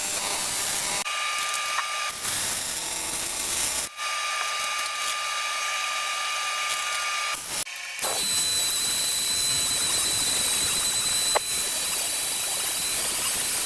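A high-speed rotary tool, a Dremel-type grinder with a burr or stone, grinds aluminum at the weld on an engine block. It runs as a steady high whine over a hiss, broken by several sudden cuts. From about eight seconds in, a different steady high hiss with a thin whine takes over.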